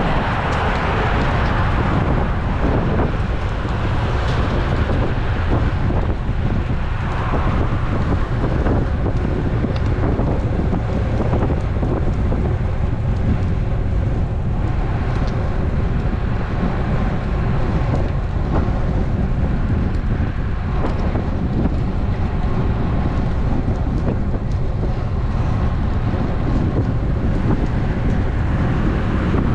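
Steady wind buffeting an action camera's microphone on a road bike moving at speed, a constant low rumble with no let-up.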